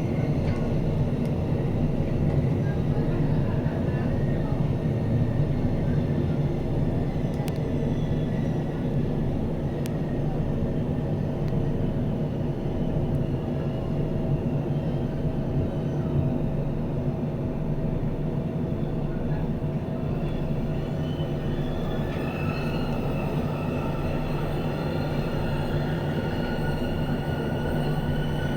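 Glacier Express train running along the track: a steady rumble of wheels and running gear. Faint high tones, like wheel squeal, waver in during the last several seconds.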